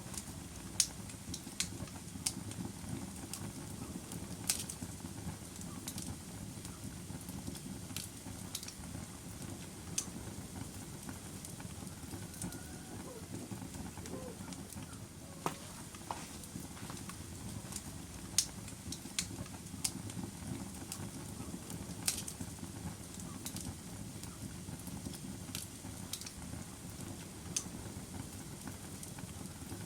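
Log fire burning in a fireplace: a steady low rumble with sharp, irregular crackles and pops, roughly one every second or two.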